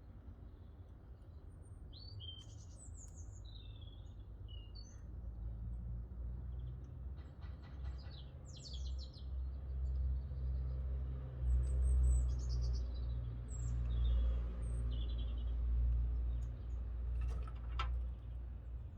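Small songbirds chirping and trilling in short, high phrases. Under them a low rumble builds from about a quarter of the way in and is loudest in the middle. There is one sharp click near the end.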